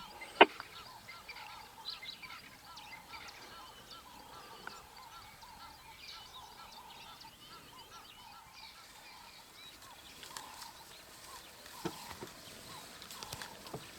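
Birds calling in the bush: a steady run of short, repeated chirps, with a sharp click about half a second in.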